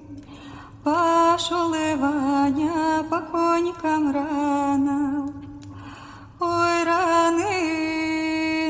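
A woman singing a folk song solo and unaccompanied, holding long notes with small ornamental turns in pitch. Two phrases, with an audible breath between them about two thirds of the way through.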